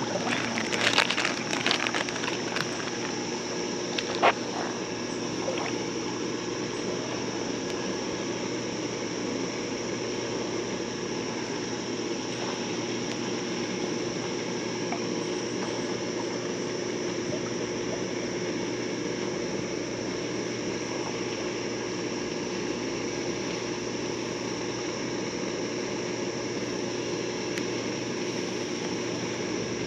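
Creek water running steadily, with a few sharp clicks and knocks in the first few seconds.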